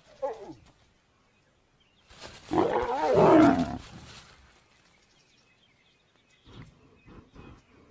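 Lions snarling: a short snarl falling in pitch at the start, then a loud, longer harsh snarl with wavering pitch about two seconds in, a lioness warning off an approaching male. A few faint soft knocks near the end.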